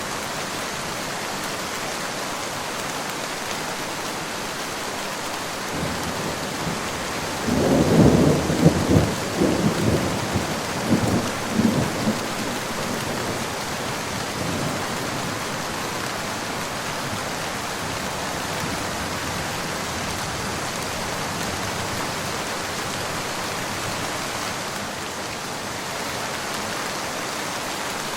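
Steady rain falling, with a roll of thunder that builds about six seconds in, cracks and rumbles loudest over the next several seconds, then fades away while the rain carries on.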